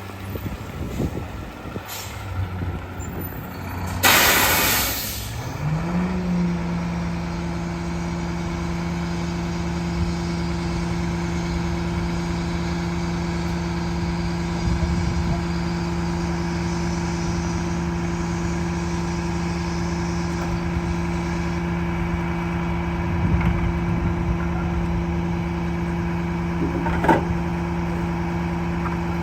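WM split-body garbage truck: a loud air-brake hiss about four seconds in, then the diesel engine revs up and holds a steady raised speed to drive the hydraulic packer. A short metallic clank comes near the end.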